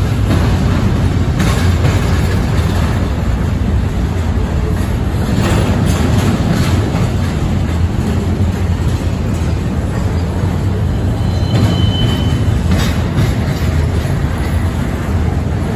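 Double-stack intermodal container cars of a CSX freight train rolling past: a loud, steady rumble of steel wheels on rail with scattered clacks. About three-quarters of the way through there is a brief high wheel squeal.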